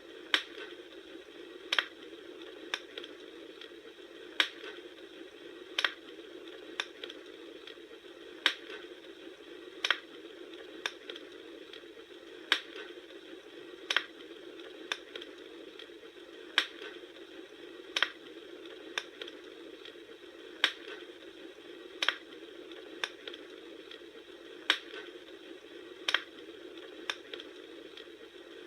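Campfire crackling: a steady hiss with sharp wood pops about once a second.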